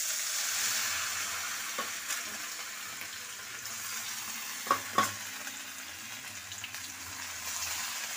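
Masala-coated cauliflower florets dropped spoonful by spoonful into hot oil, deep-frying with a steady sizzle. A few short clinks, two close together about five seconds in.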